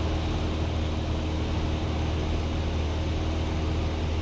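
Cessna 172's piston engine and propeller droning steadily in flight, heard inside the cabin. The drone holds at an even level and pitch.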